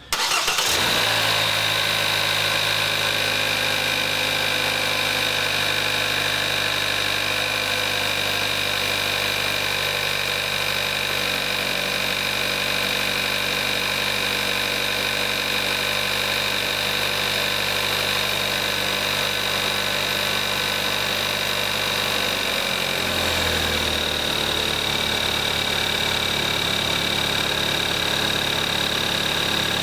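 2014 Kia Forte5's 2.0 GDI direct-injection four-cylinder engine cold-starting and catching at once, then running at a steady fast cold idle with a high steady whine over the engine note. About 23 seconds in, the idle drops to a lower speed as the engine warms; the engine has about 22,700 miles on conventional 5W-20 oil.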